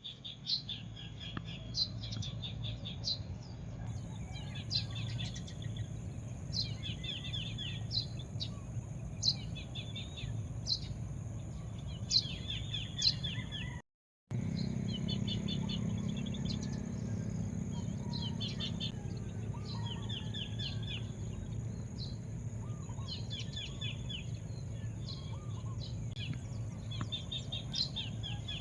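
Songbirds chirping outdoors: one bird repeats a short phrase, a sharp high note followed by a quick run of chirps, every second or two. A steady high-pitched whine and a low background hum run underneath, and the sound drops out for a split second about halfway.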